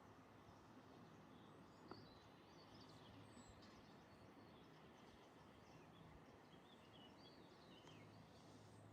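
Near silence outdoors: faint birdsong, short high chirps scattered through the middle and later part, with one faint click about two seconds in.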